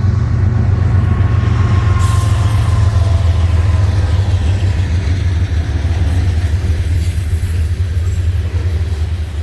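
Train passing close by: a steady, loud low rumble, joined about two seconds in by a hiss of wheel and rail noise that eases near the end.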